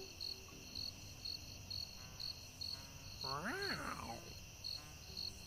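Cartoon sound effect of crickets chirping, about two chirps a second, the stock gag for an awkward silence. A short voice-like call rises and falls in pitch a little past the middle.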